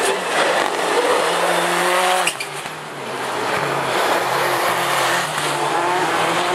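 Rallycross Supercar engines racing past, revving hard with a rising pitch, cutting off sharply about two and a half seconds in, then pulling away again.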